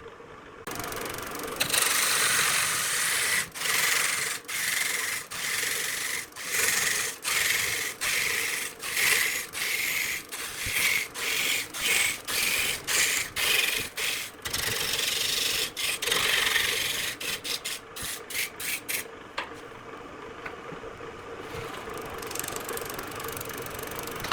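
Rhythmic scraping strokes of an abrasive rubbed back and forth on wood, about one and a half strokes a second, over a steady low hum. Near the end the strokes turn short and quick, then give way to a quieter steady hiss.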